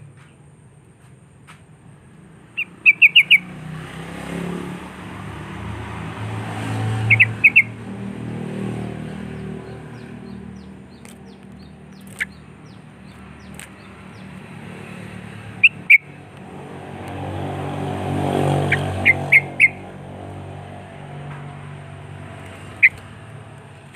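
Yellow-vented bulbul (trucuk) giving short, sharp chirps in quick runs of two to four notes, five times over. Two motor vehicles swell up and fade away behind the calls.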